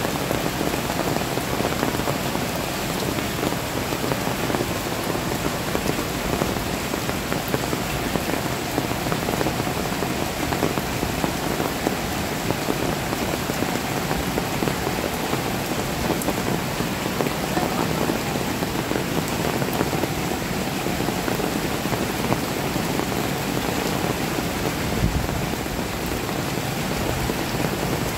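Heavy rain falling steadily onto a flooded street, a dense, even hiss of drops on standing water.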